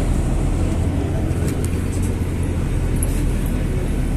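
Steady low rumble of a running vehicle, with a few faint high ticks.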